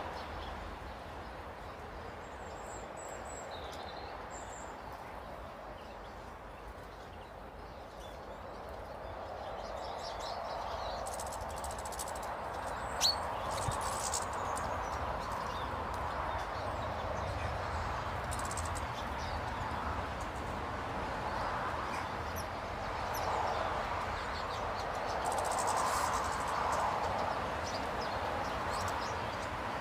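Outdoor ambience at bird tables: a steady background rush with a few short, high bird chirps about three seconds in and scattered sharp clicks later on.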